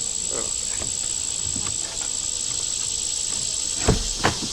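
Insects trilling steadily in one high-pitched tone over a hiss, with two sharp knocks near the end.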